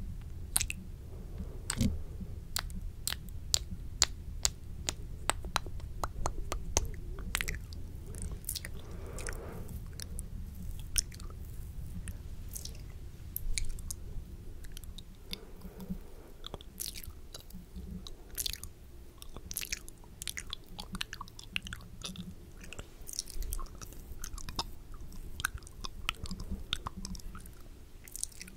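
Close-miked ASMR mouth sounds: quick, irregular clicks, thickest in the first several seconds, with a soft breathy stretch around nine seconds in.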